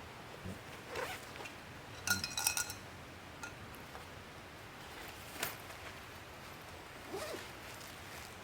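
Metal items clinking together: a quick cluster of ringing clinks about two seconds in, with a few softer knocks and rustles around it.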